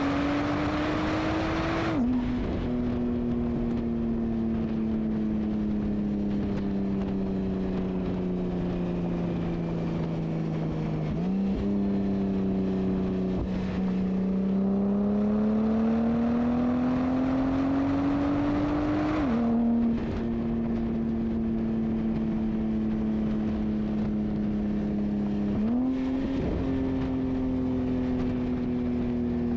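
Porsche Turbo engine through a Fabspeed exhaust, driving through the gears. Its pitch sinks slowly while coasting and climbs while accelerating. It drops suddenly at upshifts about 2 seconds in and about 19 seconds in, and jumps up at downshifts about 11 and 26 seconds in.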